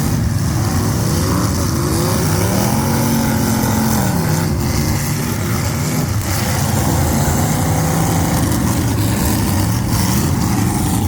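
Semi truck diesel engine running loud, revving up and easing back down, then rising again near the end.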